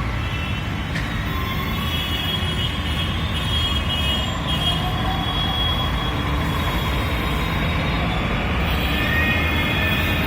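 Steady rumble of vehicle and traffic noise, growing slightly louder toward the end.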